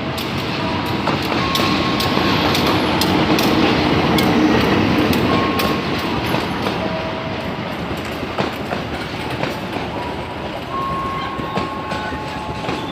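Train running on rails, its wheels clicking over the rail joints, growing louder for the first few seconds and then easing off, with a few short high-pitched tones from the wheels or rails.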